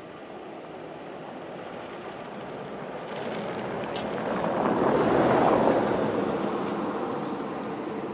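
John Deere S670 combine running as it passes close by. Its noise builds, peaks about five seconds in, then fades.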